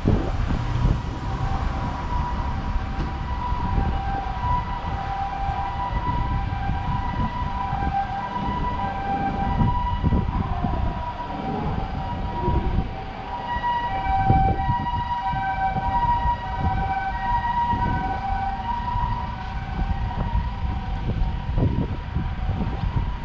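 Emergency vehicle's two-tone siren, a steady high-low alternation repeating over and over, over low street-traffic rumble.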